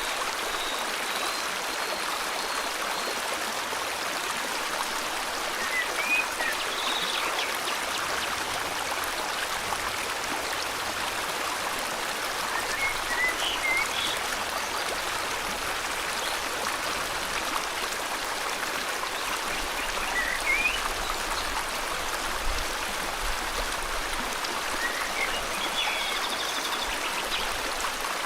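Steady rushing of flowing river water, with short, high bird chirps every few seconds.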